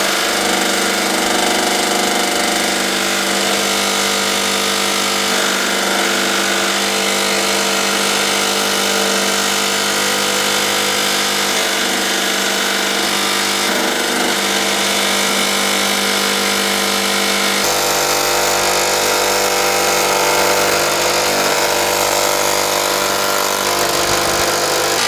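A power tool running steadily during metalwork, with a constant motor whine; about 18 seconds in the sound shifts and takes on more low rumble.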